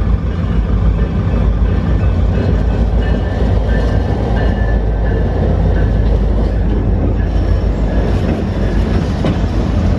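A train going by close at hand: a loud, steady rumble of the train rolling on the rails.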